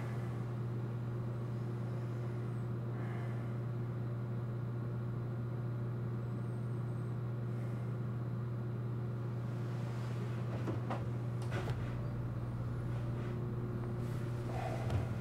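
A steady low hum holding an even pitch, with a few faint taps about eleven seconds in.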